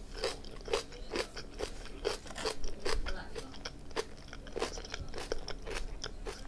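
A person chewing a mouthful of sweet potato with kimchi, giving a steady run of crunches at about two a second.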